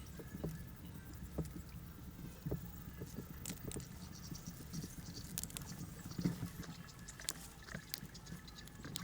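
Irregular soft knocks and taps, with a few sharper clicks scattered through.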